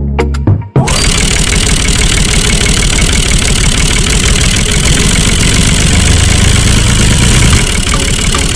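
Music that stops about a second in, followed by a steady engine running.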